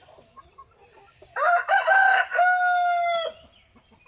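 A rooster crowing once, a broken start running into a long held final note, over faint clucking from hens.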